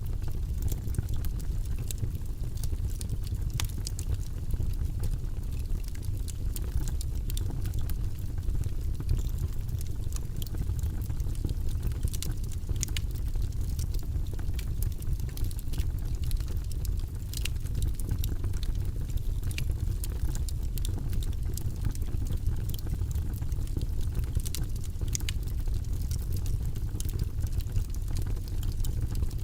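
Log fire in a fireplace burning, with a steady low rumble under scattered sharp crackles and pops from the burning wood.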